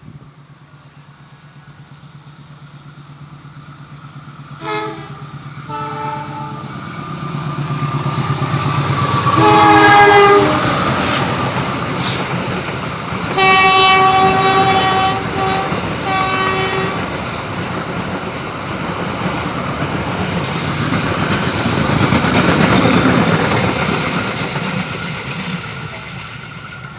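A train approaching and passing, its rumble building, peaking and fading near the end. The locomotive horn sounds two short blasts, then a longer one, then a long two-part blast in the middle.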